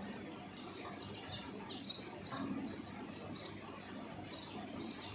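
Indian ringneck parrot giving short, high chirps, about two a second.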